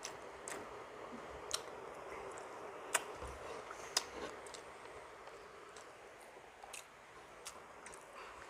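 Close-up eating sounds of someone chewing paksiw na bangus (vinegar-stewed milkfish), with wet mouth noises and sharp clicks every second or so.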